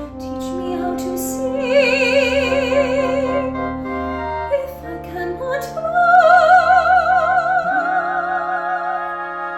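Classical music in an operatic style: a singer holds two long notes with wide vibrato, the second higher than the first, over sustained accompaniment.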